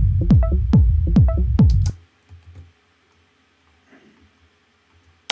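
Techno loop playing back: a heavy drum-machine kick with short, plucky synth notes on a steady beat. It stops abruptly about two seconds in, leaving near silence until the loop starts again at the very end.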